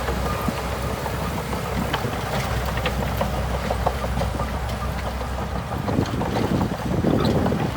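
Bulldozer's diesel engine running steadily, with scattered light clicks and knocks over it.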